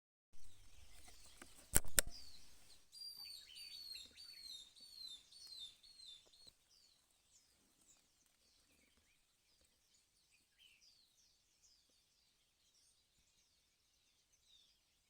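A sharp crack a little under two seconds in, then a bird calling a quick run of downward-sliding chirps for a few seconds, with fainter, scattered chirps trailing on afterwards.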